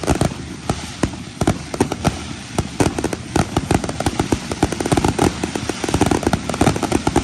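Fireworks grand finale: a rapid, continuous barrage of overlapping bangs and crackles, growing denser and louder about halfway through.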